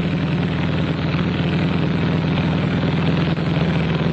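Motorcycle engine running steadily with an even, unchanging pitch.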